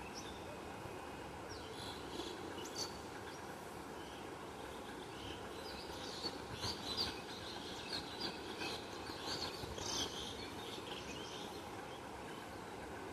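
Small birds chirping in short, high notes, a quick flurry of them in the middle, over a steady background rumble.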